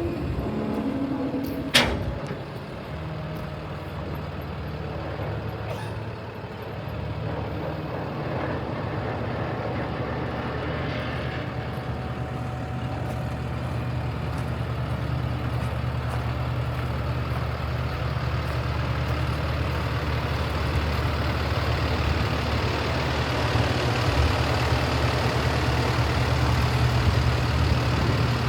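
Paccar PX-7 inline-six diesel of a Peterbilt 337 truck running steadily, slowly growing louder. A single sharp clunk about two seconds in.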